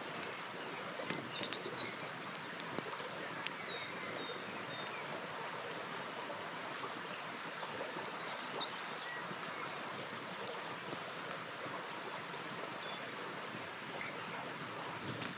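River water rushing steadily, with a few sharp crackles from a campfire, most of them in the first few seconds, and faint bird chirps.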